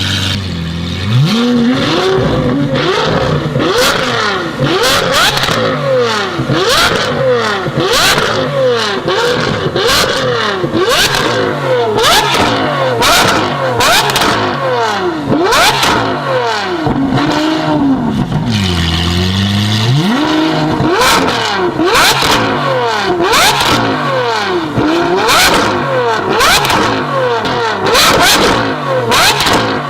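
Lamborghini Aventador SVJ's V12 revving through an aftermarket valved sport exhaust. The pitch climbs and falls again and again, with a deeper dip and climb about two-thirds of the way through, and sharp pops and crackles come throughout as the revs drop.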